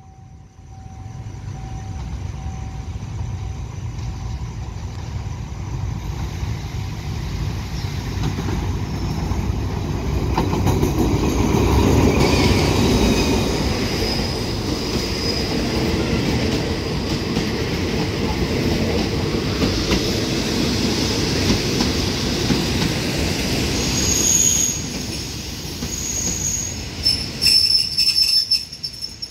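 Passenger train arriving at a station platform: the locomotive and carriages rumble past on the track, growing louder over the first ten seconds or so. High wheel-and-brake squeals come in as it slows to a stop, with a few sharp clanks near the end.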